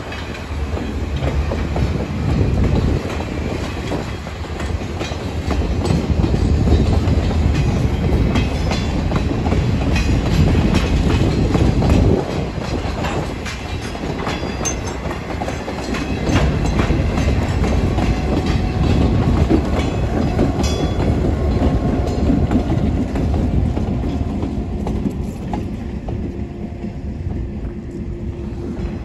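Railroad cars rolling past close by, with a steady rumble and wheels clicking over the rail joints. The sound fades over the last few seconds as the train clears the crossing.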